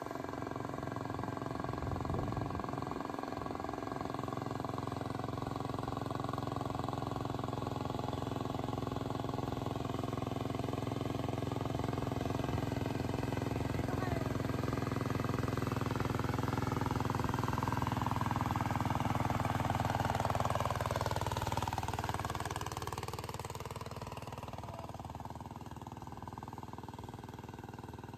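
A small engine running steadily. About two-thirds of the way in it grows louder, then its pitch falls and it fades.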